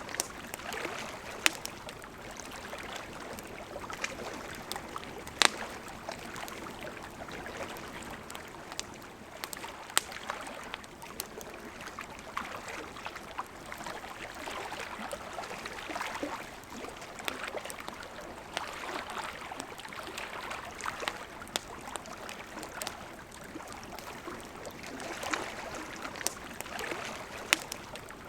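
Campfire crackling with scattered sharp pops over the steady rush of a flowing river, the loudest pops about five seconds in, about ten seconds in, and near the end.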